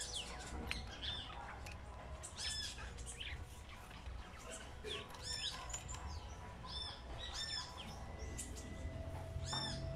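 Birds calling: one short chirp that rises and falls repeats about every two to three seconds, with other smaller chirps in between.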